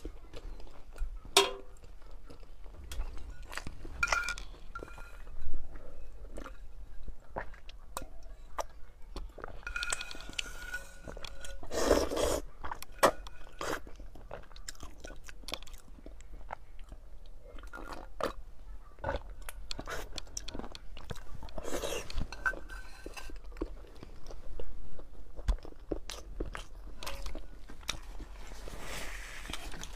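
Mouth sounds of eating whole boiled eggs and hot and sour glass noodles: chewing and biting with many small wet clicks. A few longer, louder stretches come about 12 and 22 seconds in.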